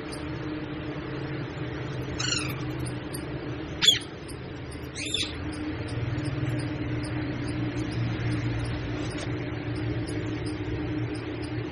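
Parrot giving three short, sweeping calls about two, four and five seconds in, the middle one sharpest and loudest, over a steady hum.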